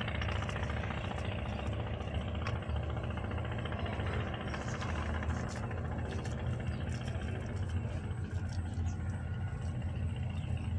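A steady low mechanical hum with a few faint light ticks over it.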